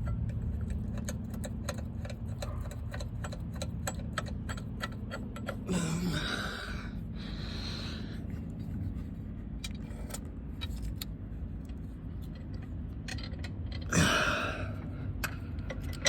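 Hand ratchet clicking in quick runs of ticks as starter mounting bolts are run in, over a steady low hum. There are two brief louder noises about six and fourteen seconds in.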